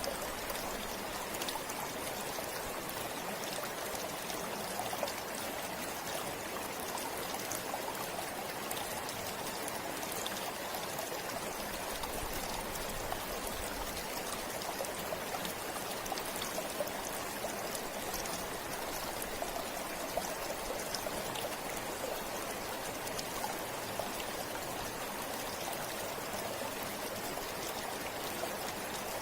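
River water flowing steadily over stones, a continuous rushing with small splashes and trickles.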